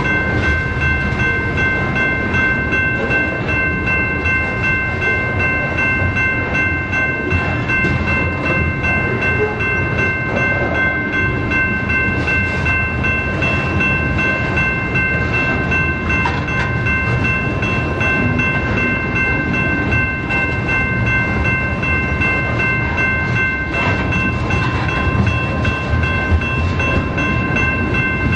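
BNSF freight train rolling past, its cars rumbling steadily, with a continuous high-pitched squeal of several steady tones held throughout.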